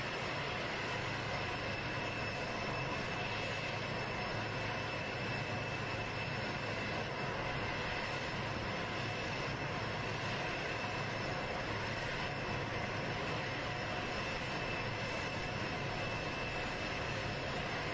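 Jet engines of Air Force One, a Boeing 747-based VC-25A, running steadily: a constant high whine over a low hum, with no change in level.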